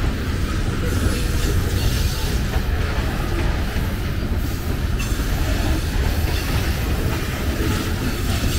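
Covered grain hopper cars of a freight train rolling past, their steel wheels running on the rails with a steady low rumble.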